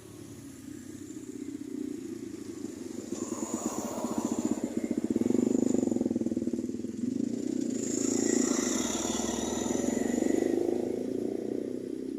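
Motor vehicle engines running on a road, growing louder twice as vehicles go by.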